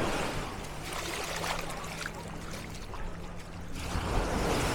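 Small waves washing on a sand beach, a noisy wash that swells and eases, rising again near the end, with a faint low steady hum beneath.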